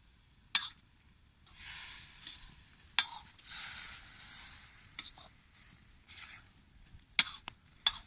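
Lardons frying in a wok while being stirred: surges of sizzling and scraping, with several sharp clicks scattered through.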